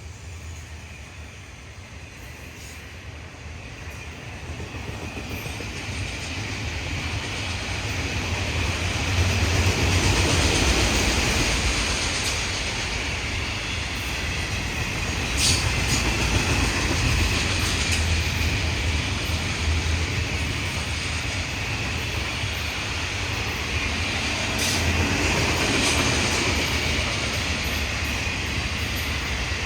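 Florida East Coast Railway freight train rolling past, growing louder over the first ten seconds and then a steady rumble of freight cars, with a thin high wheel squeal and a few sharp clicks.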